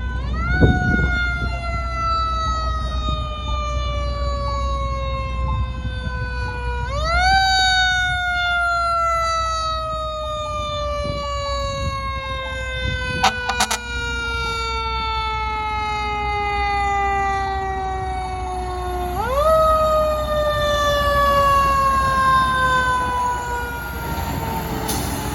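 Fire truck siren sounding on a response run: three wails, each rising quickly and then falling slowly over several seconds. Under it is a low engine rumble.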